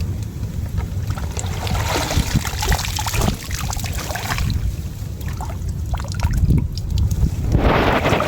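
Water sloshing and splashing in two stretches, the second near the end, over a steady low rumble of wind on the microphone.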